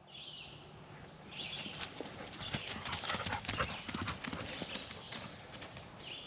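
Footsteps on grass and leaves: a run of irregular light steps that gets busier about a second and a half in, then eases off.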